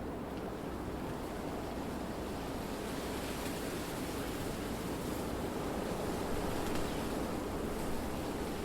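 Wind blowing through trees, a steady rushing with the leafy hiss growing stronger about three seconds in.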